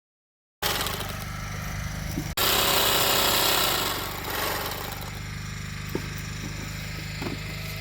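A motor running steadily, with a low, even hum under a broad noise, starting abruptly after a short silence and louder for a second or two after a cut about two seconds in.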